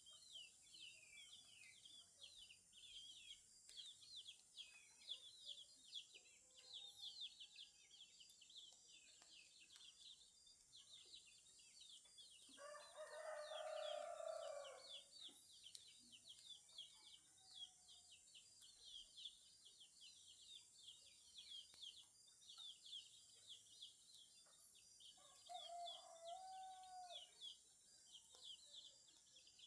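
A rooster crowing once, about halfway through, for about two seconds, and again more faintly near the end, over steady chirping of many small birds at dawn.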